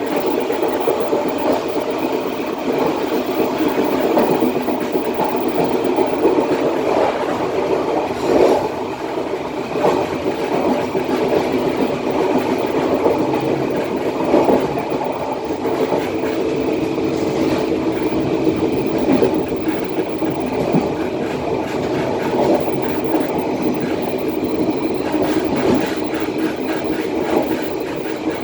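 Passenger train's steel wheels running steadily on the rails, heard from the rear of the last carriage, with a few knocks as the wheels pass over rail joints.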